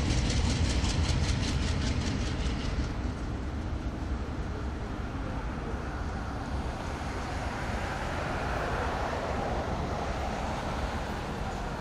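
Diesel train passing close by: a heavy low rumble, loudest at first and easing off, with a rapid even ticking of about five a second for the first three seconds.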